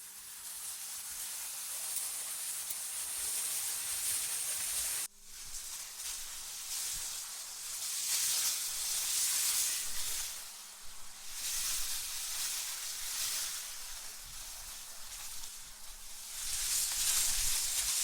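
Wind noise as a high, airy hiss that swells and eases in gusts every few seconds. It cuts out abruptly for a moment about five seconds in.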